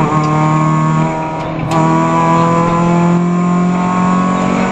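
Peugeot 206 F2000/14 rally car's engine heard from inside the cabin, running hard under load. There is a sharp click about a second and a half in, after which the engine note climbs steadily as the car accelerates.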